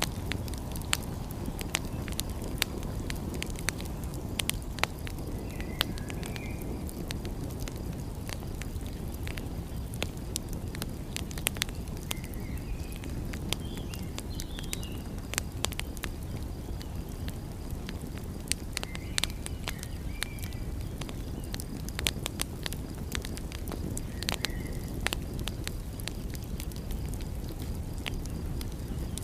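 Wood fire crackling, with frequent sharp pops and snaps over a steady low rumble. Faint short chirps come a few times.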